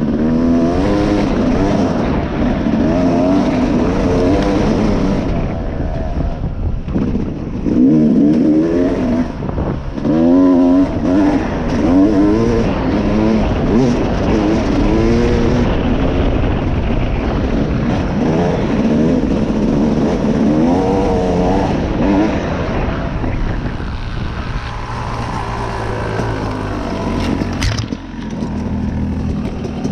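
Dirt bike engine under way, its pitch rising and falling over and over as the throttle is worked and gears change. It settles to a lower, steadier note in the last few seconds, with one sharp knock near the end.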